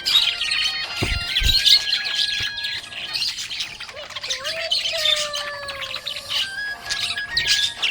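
Budgerigars chirping and warbling: a dense, continuous chatter of quick high chirps mixed with short whistled notes.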